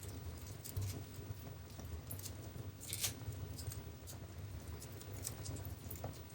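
Wood fire in a fireplace crackling: scattered sharp pops and snaps over a low steady rumble of the flames, the loudest pop about three seconds in.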